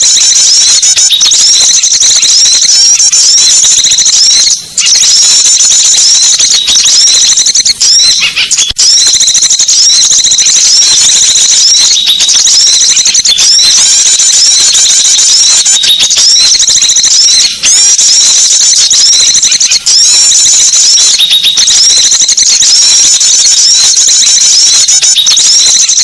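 Bird-lure recording of many small birds twittering, a dense, continuous, high-pitched chatter of quickly repeated chirps, with a few brief breaks.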